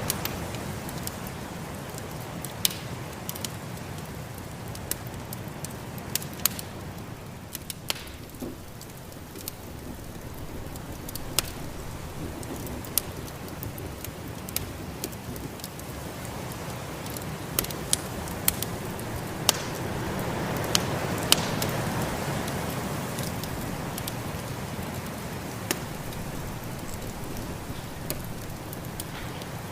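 Wood fire crackling, with sharp pops scattered through it, over the steady rush of a snowstorm's wind that swells for a few seconds about two-thirds of the way in.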